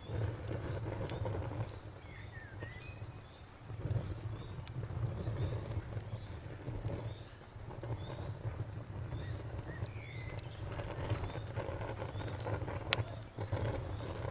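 Night ambience of a campfire crackling with a few sharp pops, over a cricket chirping steadily about three times a second and a low steady rumble.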